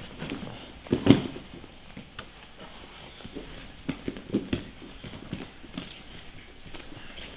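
Two grapplers moving on a jiu-jitsu mat: bodies and limbs thumping and scuffing against the mat, with a heavy thump about a second in and softer knocks after.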